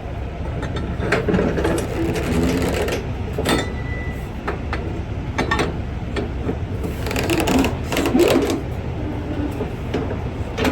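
A diesel engine idling with a steady low rumble, broken several times by short bursts of rapid mechanical clattering.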